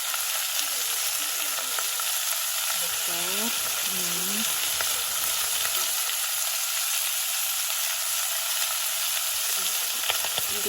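Food sizzling in hot oil in a pan while it is stirred, a steady even hiss, with a few sharp utensil clicks near the end.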